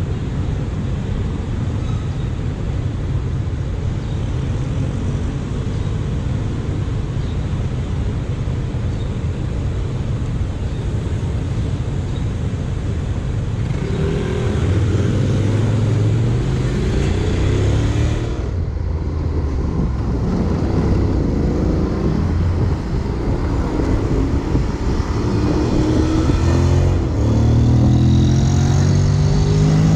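Honda X-ADV 750's parallel-twin engine running under way, with steady wind and road noise. From about halfway, the engine note climbs in pitch several times as the bike accelerates.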